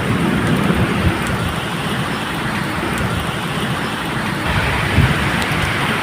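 Medium rain falling steadily, with a low rumble of distant thunder underneath and a few sharp drips.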